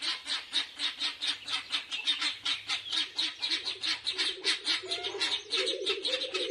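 Guinea fowl chattering: a fast, even run of harsh, shrill "chek" calls, about five or six a second.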